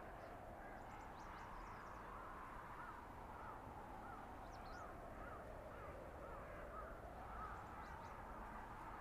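Steady blizzard wind through a winter forest, a soft even rush. From about three seconds in, a bird calls a run of about ten short notes, a little over two a second, with a few faint high chirps.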